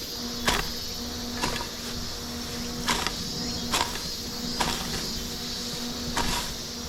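Steady hum of the small electric fans in a fan-cooled work jacket (kuchofuku), with footsteps through grass and brush about once a second.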